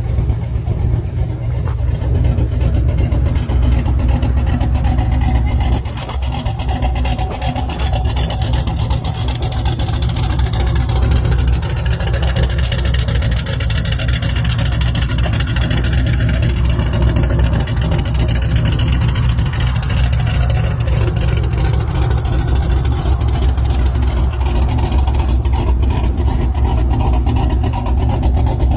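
An engine running steadily throughout, with a short dip in loudness about six seconds in.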